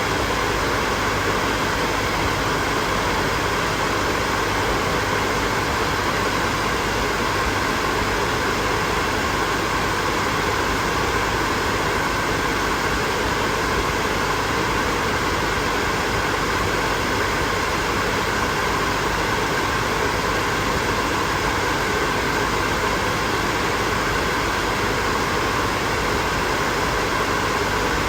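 Hair dryer running steadily, a constant airy rush with a faint motor hum and whine.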